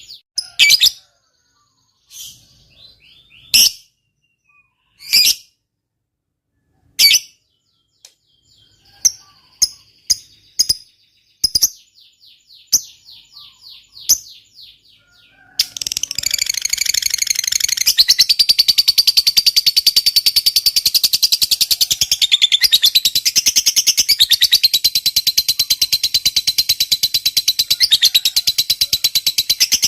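Lovebird calling: sharp separate chirps and a few short rattling runs, then about halfway through it breaks into a long, very fast, unbroken chatter. That chatter is the long 'ngekek' cackle prized in fighter lovebirds.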